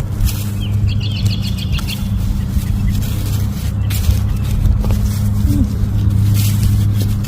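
A steady low motor hum, like an idling vehicle engine, with a short run of bird chirps about a second in and scattered brief scrapes and clicks.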